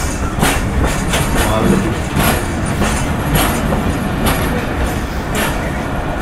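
Passenger train running along the track: a steady low rumble with irregular clacks from the wheels on the rails.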